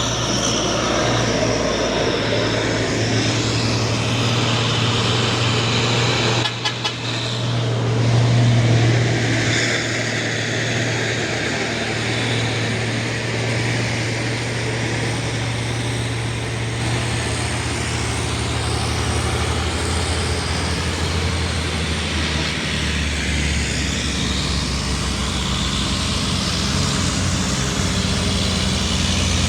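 Truck engines running, a steady low hum that shifts pitch a couple of times as vehicles work, with a brief break about six and a half seconds in.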